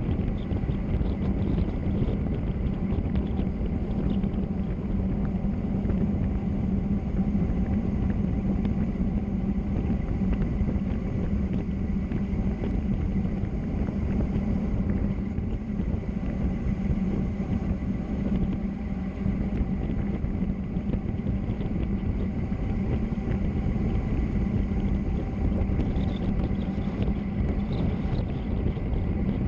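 Steady rush of wind and road noise during a fast bicycle descent, with a steady low hum underneath.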